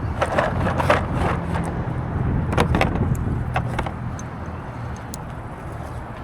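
Low steady rumble of a vehicle or outdoor wind, slowly fading, with light clicks and taps of small parts being handled, loudest in the first few seconds.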